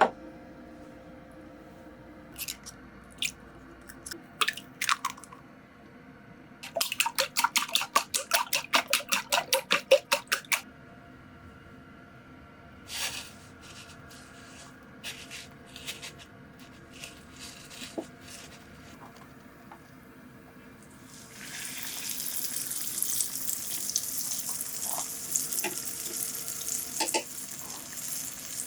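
Kitchen work sounds: scattered clicks, then a quick run of about twenty knocks. About 21 seconds in, a steady sizzle of food frying in a pan starts.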